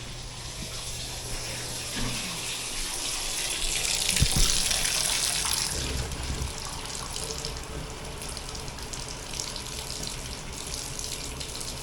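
Hot water running from a tap into a container, a steady rush that grows louder about four seconds in, with a single knock at the same moment.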